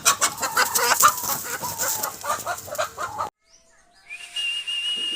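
Aseel chickens clucking over a dense, rapid rustling that may be wing flapping, cut off abruptly about three seconds in. A steady high-pitched tone with a hiss starts near the end.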